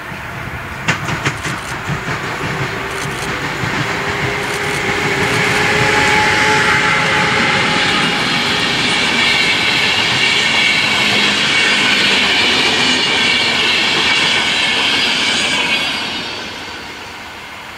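Passenger train of coaches passing close by. Sharp wheel clacks sound over the rail joints about a second in, then a loud steady rolling noise with a high ringing from the wheels, which fades away about sixteen seconds in.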